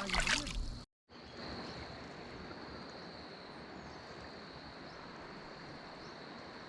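A loud jumble of noise that cuts off abruptly about a second in, then a steady outdoor hiss like flowing river water, with a constant high-pitched insect drone over it.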